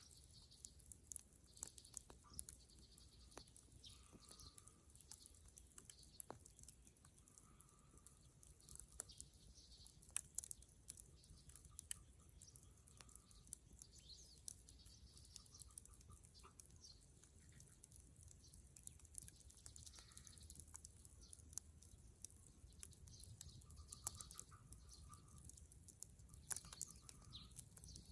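Dead-wood bonfire crackling, with scattered sharp pops and cracks at an irregular pace. Faint short trills repeat every few seconds behind it.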